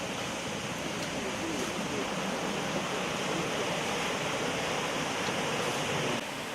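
Steady rush of flowing water from a rainforest creek, even and unbroken. It changes abruptly near the end.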